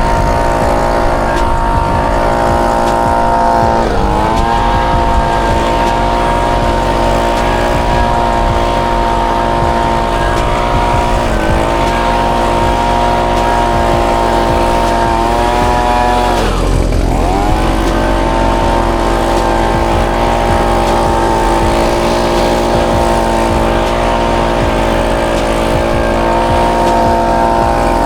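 Suzuki GSX-R1000R's inline-four engine idling steadily after a fresh start, its note dipping briefly in pitch and recovering about four times, the deepest dip just past the middle.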